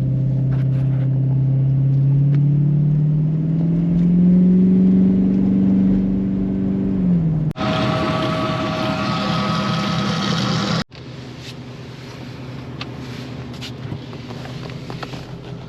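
Vehicle engine pulling steadily, its note rising as it gathers speed. About seven seconds in it cuts abruptly to a louder, hissier mechanical sound, and a few seconds later to quieter rough road-like noise with scattered clicks.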